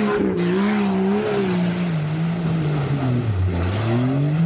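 Off-road 4x4 engine revving hard under load as the vehicle pushes through deep mud, its pitch wavering up and down, dropping about three and a half seconds in and climbing again near the end.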